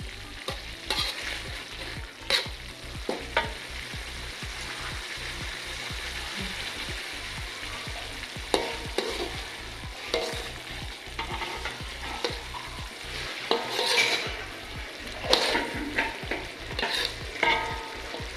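Black rawon spice paste frying in oil in a wok, sizzling steadily while a metal spatula stirs it with irregular scrapes and knocks against the pan, a few louder scrapes toward the end. The paste is being sautéed until fragrant.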